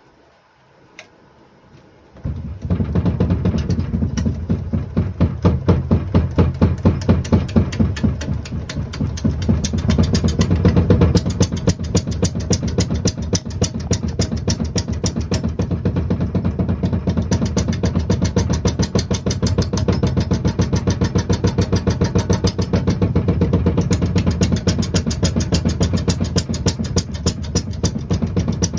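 Wood lathe starting about two seconds in and running at speed, with a fast, regular knocking throughout.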